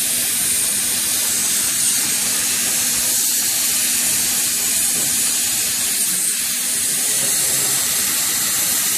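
Hot air banner welding machine running, its blower giving a steady high hiss of hot air.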